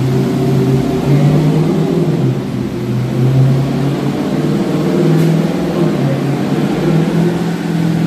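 Dodge Challenger's engine running on a chassis dynamometer, held at a fairly steady speed with small shifts in pitch.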